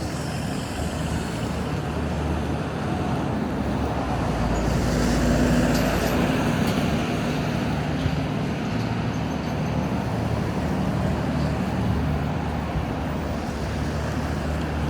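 City street traffic running steadily. One heavier vehicle passes, loudest about five to six seconds in, with a deep engine rumble.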